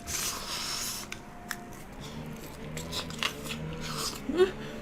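A person eating hot grilled shrimp and vegetables: a breath out to cool the mouth at the start, then chewing and wet mouth clicks. From about two seconds in, low steady tones join, and a short rising squeak comes near the end.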